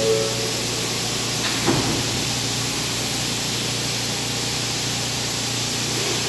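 Steady rushing noise of a New York subway train (R160A) in an underground station, with one short knock about a second and a half in.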